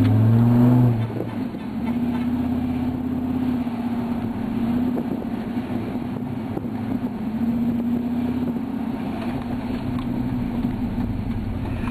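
Dodge Ram SRT-10 'Viper truck' V10 running through a Magnaflow exhaust with the rear catalytic converters deleted, while cruising: a steady low drone that drops back about a second in, then rises and falls gently with the throttle.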